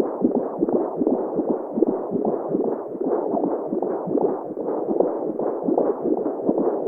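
Womb sounds for baby sleep: a muffled whooshing noise, dull with no highs, pulsing over and over with a heartbeat.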